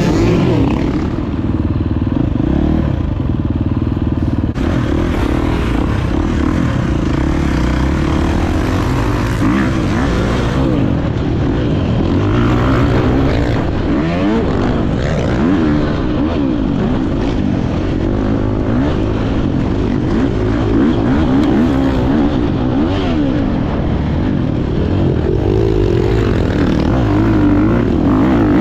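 Motocross dirt bike engine revving up and falling back over and over as it is ridden around the track, heard from an onboard camera with a heavy low rumble of wind on the microphone.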